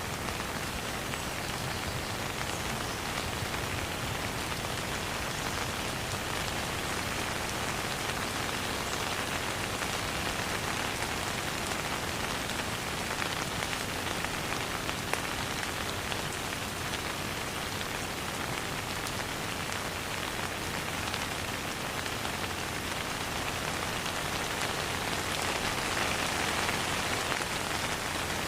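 Steady rain falling on a surface, an even hiss of many drops with fine individual drop ticks, no thunder.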